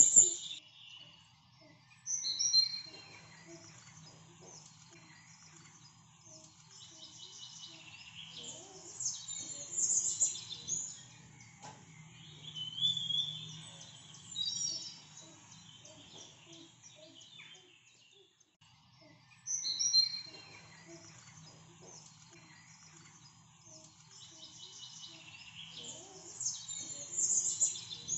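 Birds chirping and singing in bursts of high calls with pauses between them, over a faint low hum.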